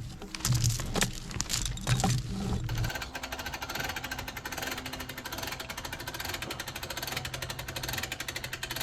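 A small engine running at idle with a rapid, even pulse, after a few knocks in the first seconds.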